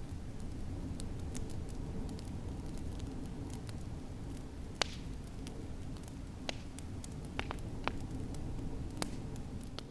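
Wood fire crackling with scattered sharp pops, the loudest about halfway through, over a steady low rumble of snowstorm wind.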